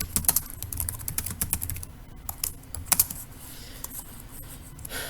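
Typing on a computer keyboard: quick runs of keystrokes for about the first three seconds, then only a few scattered clicks.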